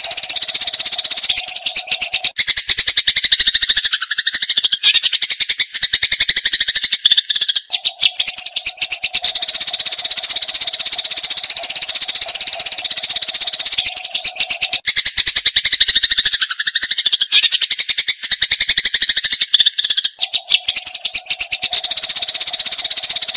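Eurasian tree sparrows chattering in a fast, dense run of high chirps, the agitated 'fighting' calls used as a masteran for songbirds. Twice the chatter carries falling notes, and the same passage repeats about every thirteen seconds, a looped recording.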